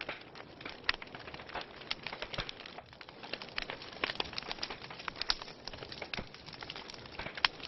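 Wood fire crackling in a fireplace: dense, irregular pops and snaps over a soft steady hiss, with one louder pop near the end.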